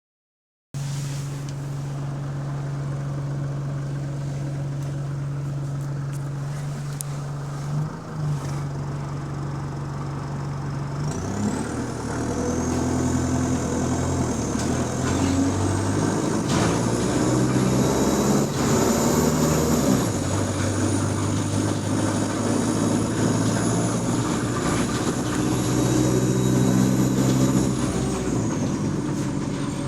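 A bus engine idling steadily, then about eleven seconds in the bus pulls away and accelerates, its engine note stepping up. A high whine rises above it while it speeds up, holds, and falls away near the end.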